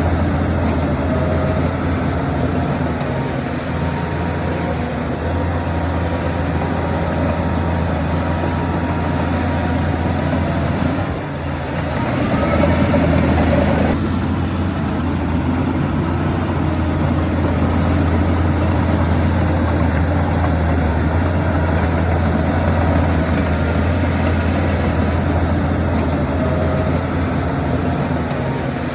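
Heavy diesel engine of earthmoving machinery running steadily, with a short dip about eleven seconds in, then a louder stretch that changes abruptly a few seconds later.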